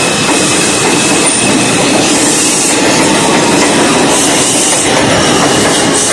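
R142 subway train running at speed, its wheels clattering steadily on the rails, with brief high-pitched wheel squeals a few times.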